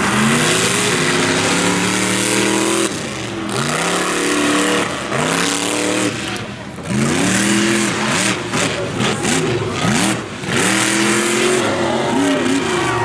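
Monster truck engine revving hard in repeated bursts, the pitch climbing and falling with each stab of throttle, easing off briefly about three, six and a half and ten seconds in.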